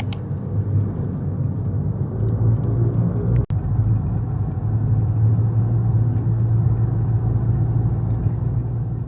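Steady low rumble of ambient noise, like road or vehicle noise, broken by an abrupt cut about three and a half seconds in and fading out near the end.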